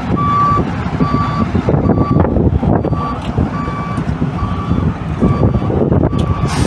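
Excavator's travel alarm beeping steadily, about one beep a second, over the machine's running diesel engine and working clatter.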